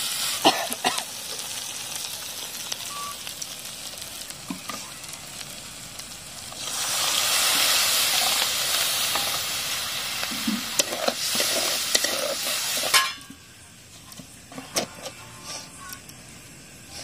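Spiced masala sizzling in a hot aluminium kadai while a metal spatula stirs and scrapes it, with scattered clicks of the spatula against the pan. About seven seconds in, the sizzling grows much louder as water is poured into the hot masala, then it drops off suddenly near the end, leaving only a faint background and a few clicks.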